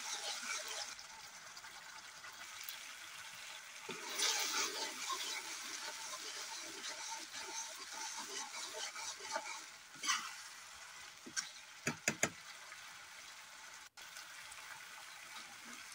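Tomato and spice masala sizzling and bubbling in a metal kadai over a wood fire, stirred with a metal ladle that scrapes the pan. A few quick sharp knocks come about twelve seconds in.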